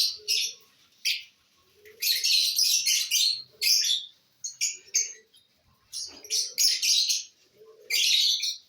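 Lovebirds chirping high-pitched in repeated bursts, each lasting under a second to about a second, with short pauses between.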